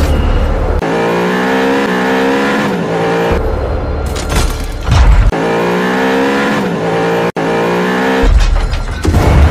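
Car engine revving in two long passes, with heavy low rumble between them and music mixed in.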